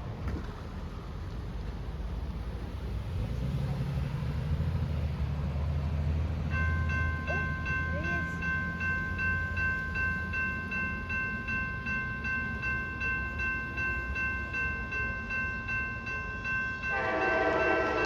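A passing train: a diesel locomotive's horn cuts off at the start, then the low rumble of the train, with a steady high ringing that pulses about one and a half times a second. The horn sounds again near the end.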